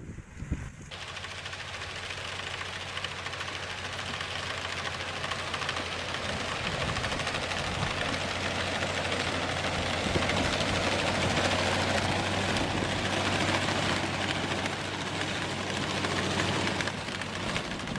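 Machinery running steadily with a low, even hum under a broad mechanical noise, starting abruptly about a second in.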